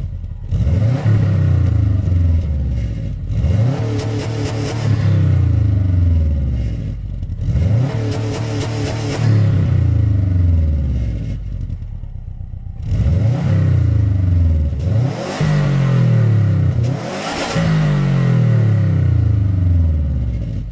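2016 Subaru WRX STI's turbocharged 2.5-litre flat-four revving through an XForce Varex valved cat-back exhaust. It is blipped about six times in a row, each rev climbing quickly and then falling back slowly toward idle.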